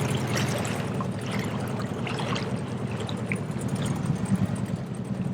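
Boat engine running steadily, with water splashing and rushing past the hull.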